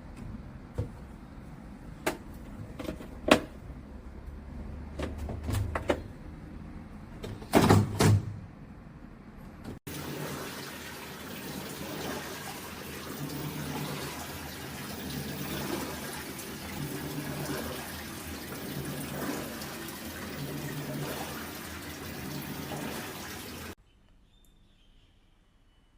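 Top-load washing machine with water rushing and sloshing in its tub, and a low hum that comes and goes in short pulses. Before it starts, about ten seconds in, there is a series of sharp clicks and knocks, the loudest a double knock shortly before.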